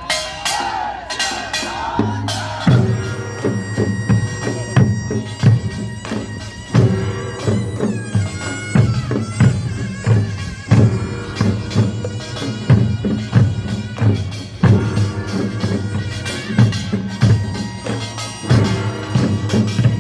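Korean nongak farmers' band music: a taepyeongso shawm playing a held, wavering melody over gongs and drums, the heavy drum beat coming in strongly about two seconds in and keeping a steady rhythm.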